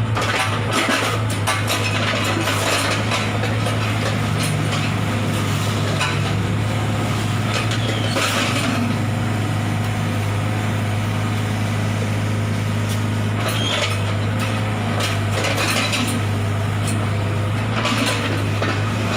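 A steady engine drone from machinery running without a break, with scattered metallic clinks and scrapes of tools on top.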